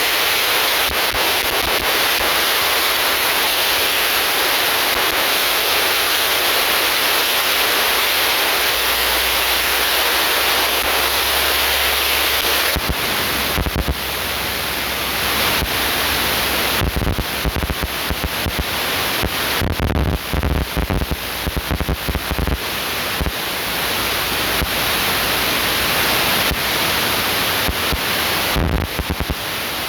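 Loud, steady rushing noise of an airliner flight. From about halfway it is overlaid by irregular low rumbling and buffeting, like wind hitting the microphone.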